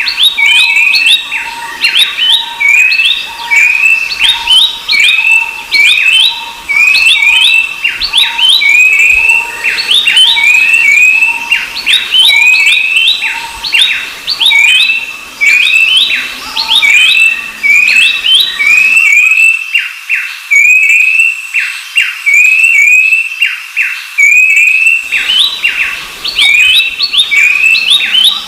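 Babblers (Horsfield's babbler and black-capped babbler) calling continuously in an overlapping chorus: quick whistled notes and short downward-sweeping calls repeated over and over.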